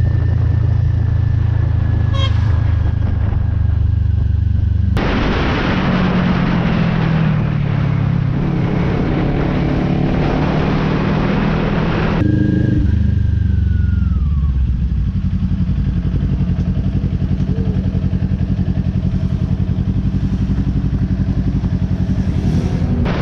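Motorcycle engine running under way, revving up through the middle with a rush of wind noise, then settling back to a steady drone.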